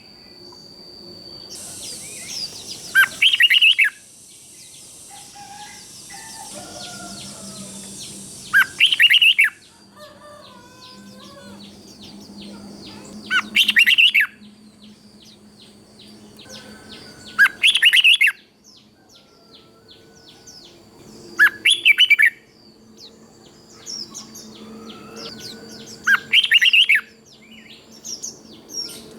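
Red-whiskered bulbul singing, a short loud phrase about every four to five seconds, six phrases in all, with fainter chirps from other birds between them.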